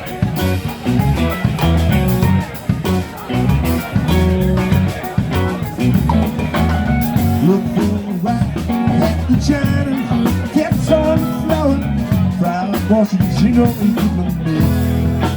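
Live band playing: electric guitar, bass and drum kit, with a guitar or vocal line that bends in pitch through the middle.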